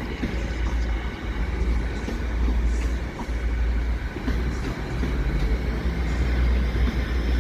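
Hitachi Class 802 passenger train pulling out of the station, a steady low rumble of the moving train with a faint high whine over it.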